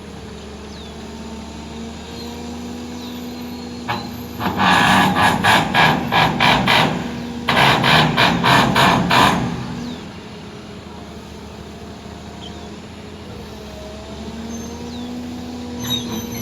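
Heavy diesel machinery running steadily, broken twice by loud spells of rhythmic clatter at about three to four beats a second, the first a few seconds in and the second just after it.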